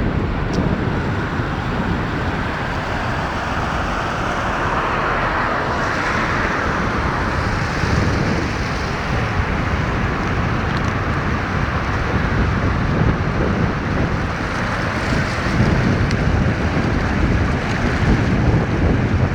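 Steady rushing noise of floodwater, with wind rumbling on the microphone; the rush swells about six seconds in.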